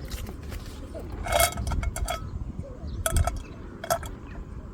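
Utensils clinking against metal cookware, four sharp clinks, each with a short metallic ring.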